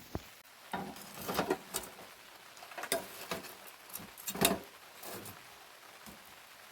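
A few irregular light clicks and rustles over a quiet outdoor background, the loudest about four seconds in.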